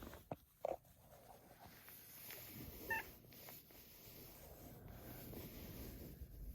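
Domestic cat giving a short, high call about three seconds in, over faint rustling and a couple of soft knocks near the start.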